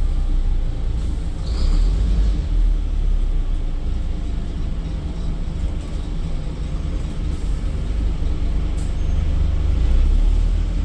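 Scania N230UD double-decker bus's engine and drivetrain heard from inside the passenger saloon: a steady low rumble with road noise as the bus drives, with a couple of faint brief hisses and clicks on top.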